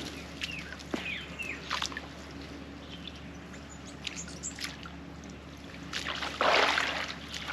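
Birds chirping over trickling water, with a louder rush of splashing water about six seconds in.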